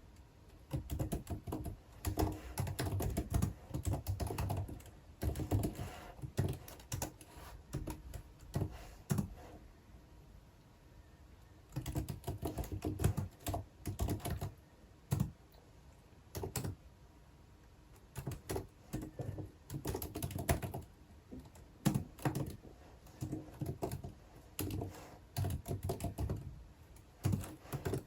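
Typing on a computer keyboard: runs of rapid keystrokes with short pauses between them, the longest gaps about ten and seventeen seconds in.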